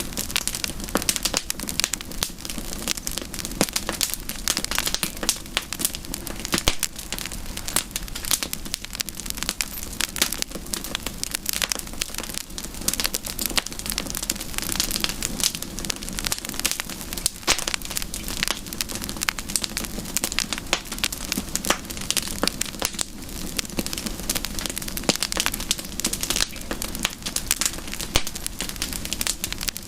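Campfire crackling steadily, with a dense run of irregular pops and snaps of burning wood.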